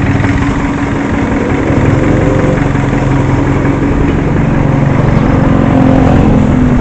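Motor vehicle engine running steadily close by, growing slightly louder over the first couple of seconds.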